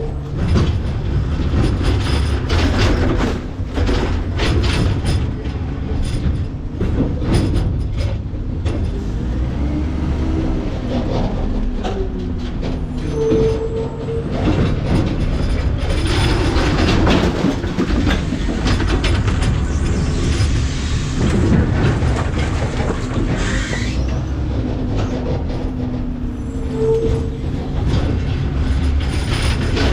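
McNeilus ZR rear-loader garbage truck packing its hopper: the hydraulic packer blades sweep and compact trash, with steady cracking, crunching and knocking of bags and debris being crushed over the low running of the truck's diesel engine. A brief squeal comes three times, about every thirteen seconds.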